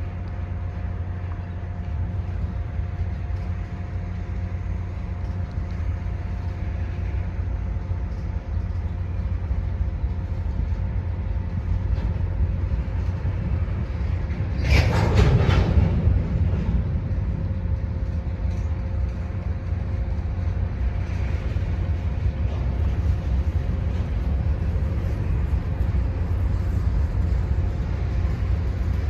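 Freight train rolling past with a steady low rumble and a faint steady whine. About halfway through, a loud, sharp noise rises for about a second.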